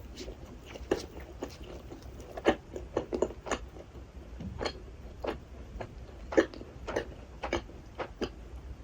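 Close-miked chewing of rasgulla, spongy cheese balls soaked in sugar syrup: wet mouth clicks and smacks coming irregularly, about two a second.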